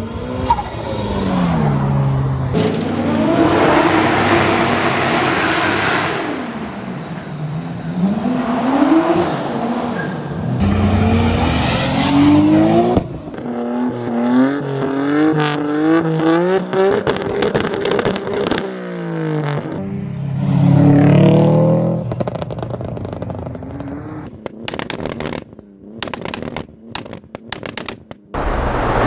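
Modified Japanese performance car engines revving and accelerating hard, one car after another, their pitch climbing and dropping between gear shifts. Near the end comes a quick series of sharp cracks.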